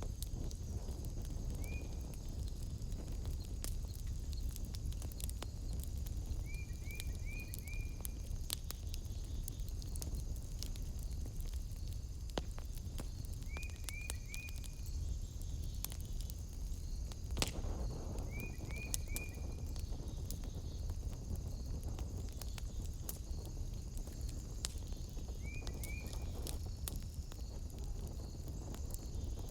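Wood fire crackling over a low rumble, with scattered pops and one sharper crack a little past halfway. Behind it runs a steady high insect drone, and an animal gives short rising chirps in runs of two to four, every five or six seconds.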